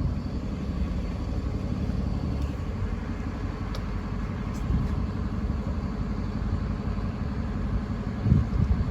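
Steady low rumble of road traffic, with car engines running.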